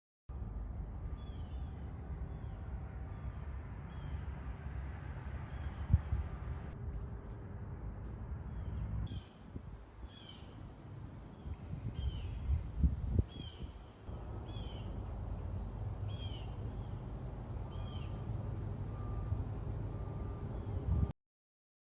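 Outdoor insect chorus: a steady high-pitched drone that holds throughout. A short chirping call repeats about once a second through it, over a low rumble.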